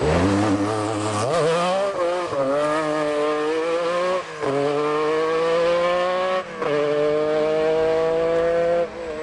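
Group B rally car engine accelerating hard through the gears, its pitch climbing steadily in each gear and dropping briefly at each upshift about every two seconds.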